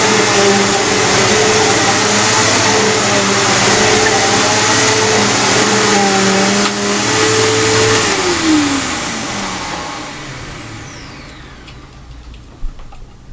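Eureka The Boss Victory 4334 upright vacuum cleaner running steadily, then switched off about eight seconds in, its motor whine falling in pitch as it spins down and fades. A light click near the end.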